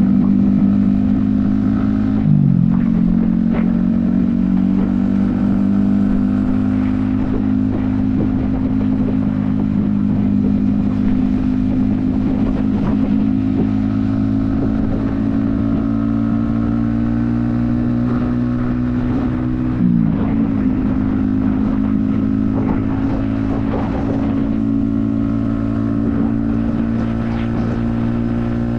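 Yamaha XSR155's 155cc single-cylinder engine running steadily at highway cruising speed, with wind noise on the helmet-mounted microphone. Twice, about two seconds in and again about twenty seconds in, the engine note dips sharply and picks straight back up as the throttle is rolled off and reopened.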